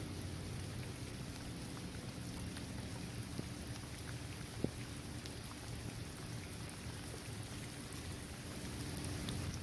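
Steady rain falling on a paved basketball court, trees and grass: a continuous hiss with scattered individual drop ticks, and one sharper drip about halfway through.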